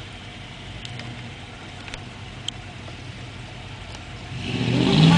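A truck engine rises into a loud rev about four seconds in, its pitch climbing a little as it holds, after a low steady background with a few light clicks.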